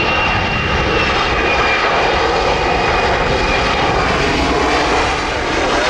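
Airliner engines passing loud and close: a steady roar with a high whine that slides slightly down in pitch.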